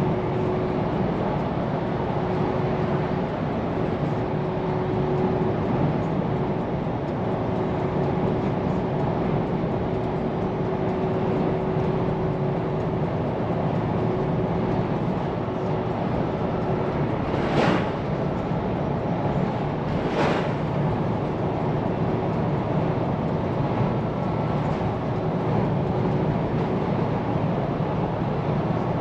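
Steady engine and road noise of a Scania P410 truck driving, heard from the cab, with a faint steady tone over it. Two sharp knocks about three seconds apart come a little after halfway through.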